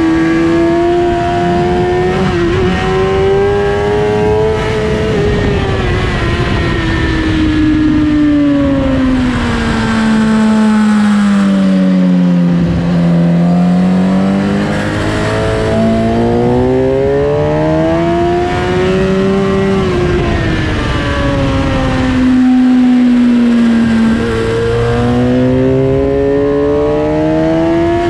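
Suzuki GSX-R1000 K8's inline-four engine at racing speed, heard from onboard over wind rush. The engine pitch climbs in the first few seconds, then falls through the middle under braking and downshifts. It rises again on the throttle, dips once more a little past two-thirds of the way and climbs again near the end.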